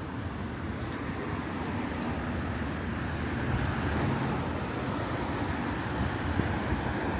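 Steady street traffic noise: a low rumble of vehicles on the road.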